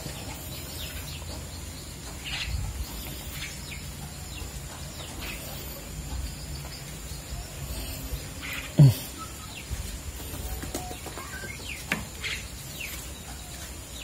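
A starling nestling gives faint, scattered high chirps while held in the hand, over a steady low hum. About nine seconds in, a short, loud sound slides steeply down in pitch.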